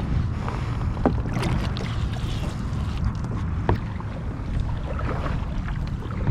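Wind rumbling on the microphone and water lapping against a kayak hull, with a few light knocks and clicks scattered through.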